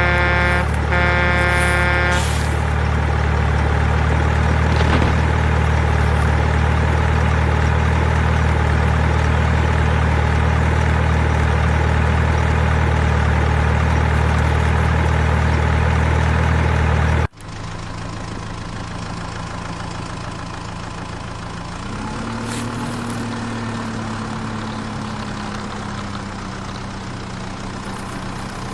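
An engine running steadily with a low hum, cut off abruptly about two-thirds through and replaced by a quieter running engine that rises briefly in pitch. Near the start there is a short pitched tone like a horn.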